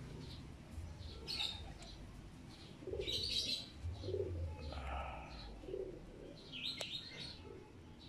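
Birds chirping now and then in the background over a low steady hum, with some lower calls like a dove cooing.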